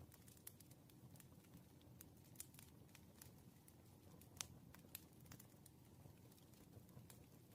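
Wood fire crackling faintly: irregular small pops and snaps over a low steady rumble of burning logs, with one sharper pop about four and a half seconds in.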